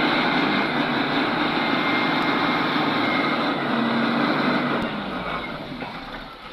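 Small excavator loading hardcore into a tipper truck: the engine runs under load with a loud, continuous rushing rattle that eases off about five seconds in.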